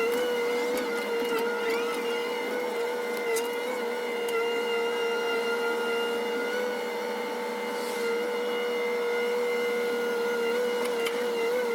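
CAT 318D excavator running with a steady high whine that holds one pitch, dipping slightly now and then.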